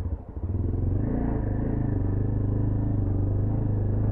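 Motorcycle engine running at a steady pitch, after a brief dip in sound just after the start.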